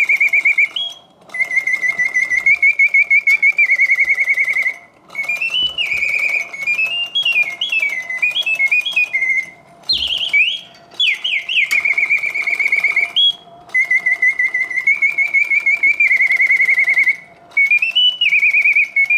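Antique French Bontems mechanical singing bird cage singing on its continuous setting: a high bellows-driven whistle in fast warbling trills and quick up-and-down glides, with short breaks between phrases, the song repeating about every nine seconds. It sings with full voice, all the proper oscillating notes, from a freshly serviced mechanism running smoothly.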